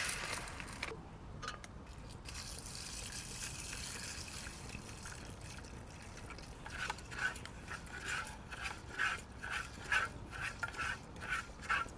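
Water in a mess tin as rice is rinsed for cooking: a soft pour first, then a steady swishing of about two strokes a second in the second half.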